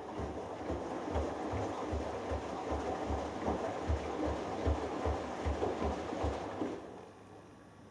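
Hoover Dynamic Next washing machine drum turning during the delicates wash: washing and water sloshing, with low thumps about two or three a second. It stops near the end as the drum pauses.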